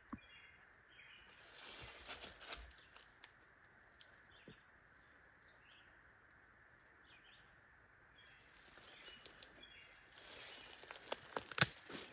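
Footsteps rustling through forest undergrowth in two spells, about two seconds in and again near the end, with a sharp snap near the end. Short bird chirps sound faintly in between.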